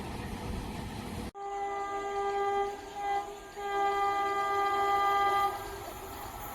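Indian Railways train horn sounding three blasts: a long one, a short one and a long one. Before the horn, a steady low rumble cuts off abruptly about a second in.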